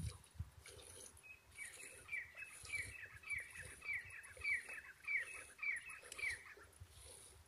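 A bird calling a run of about ten short down-slurred notes, roughly two a second, over faint, regular high hissing spurts.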